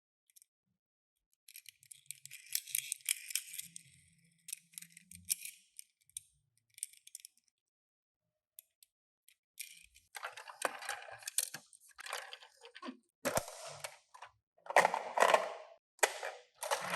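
Hands handling toy packaging and small die-cast toy cars: bursts of rustling with light clicks and rattles. There is a pause of about two seconds midway, and the handling then grows busier and louder.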